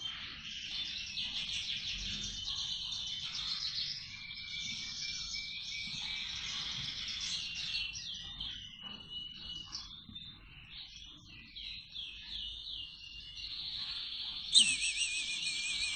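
Nestling cage-bird chicks chirping in a steady high chatter of short calls and trills. Near the end a louder, rapidly wavering trill cuts in.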